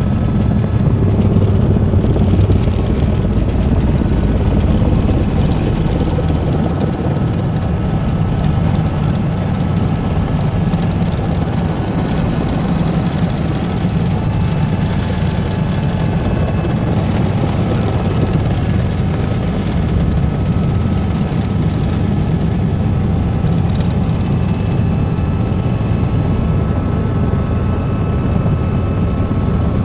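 Helicopter engine and rotors running steadily in flight, a loud constant drone with a faint high whine above it.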